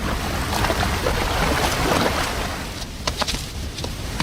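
Raging snowmelt river rushing in a steady roar of whitewater, with a few sharper splashes about three seconds in.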